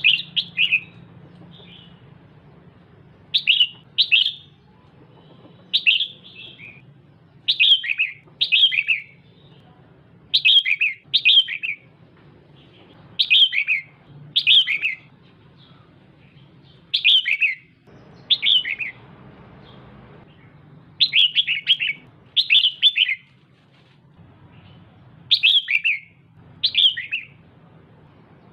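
Female red-whiskered bulbul calling: short chirps, each a quick run of two to four falling notes, repeated every second or two and often in pairs. These are the female's calls that stir male bulbuls to sing.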